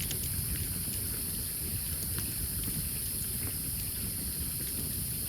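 Wood campfire crackling, with a few sharp pops scattered through, over a steady low rumble and a constant high hiss.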